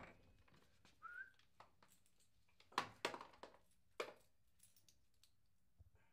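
Quiet room with a few soft knocks and one brief, high rising squeak about a second in.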